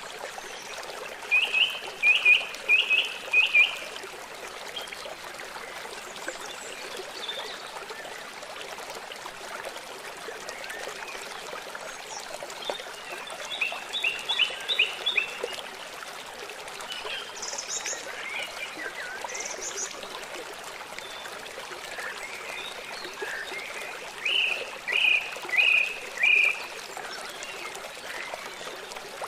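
Birds singing over the steady rush of flowing water: a quick series of four or five repeated notes about a second in and again near the end, with scattered chirps between.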